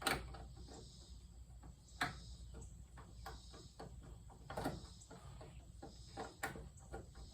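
Faint, scattered clicks and light knocks a second or two apart, from hands and a tool working on ceiling fan parts, over a low steady hum.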